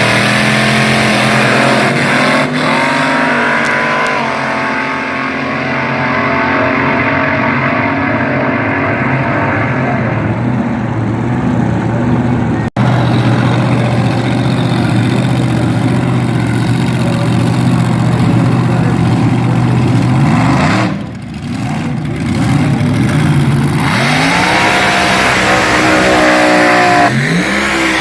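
Front-engine dragster's engine running loud and steady, cutting out for an instant about halfway through. Near the end it revs up and down in quick rising and falling sweeps.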